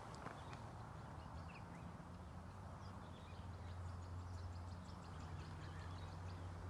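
Quiet outdoor ambience: a steady low hum, a little louder in the second half, with faint, scattered short bird chirps.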